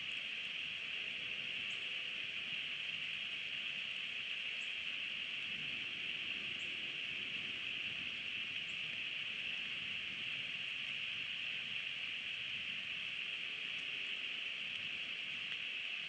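Steady rain falling, an unbroken even hiss, with faint light ticks every couple of seconds.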